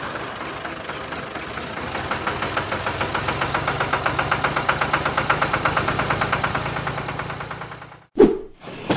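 Tractor engine running with a fast, even chugging that grows stronger a couple of seconds in, then fades and stops abruptly near the end, followed by a brief sliding tone.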